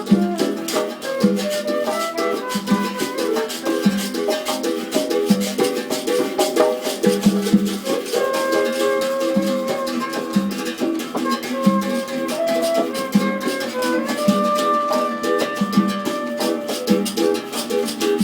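Acoustic instruments playing together: plucked strings carrying the melody and chords over a shaker's steady rattle, with a regular low beat.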